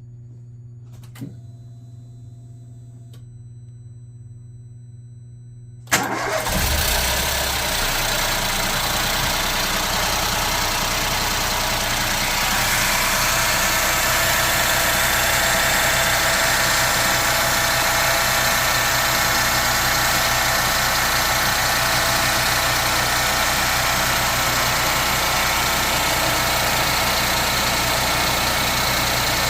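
Ford Fiesta 1.0 EcoBoost three-cylinder engine started cold about six seconds in, after a click, then idling with a steady high, noisy sound over the engine note. The owner reports this strange noise comes only from a cold engine and fades after 25-30 seconds; its cause is unknown.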